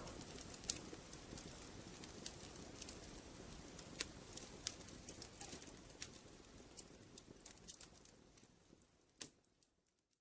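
Wood fire crackling in a fireplace: a low steady rush with frequent sharp pops and snaps, fading out over the last few seconds.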